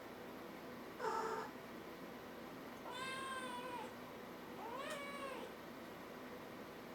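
Kitten meowing three times: a short meow about a second in, then two longer high meows, the last rising and then falling in pitch.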